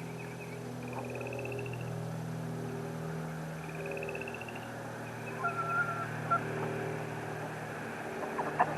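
Domestic ducks calling softly and intermittently over a steady low hum, with two short, rapid high trills in the first half.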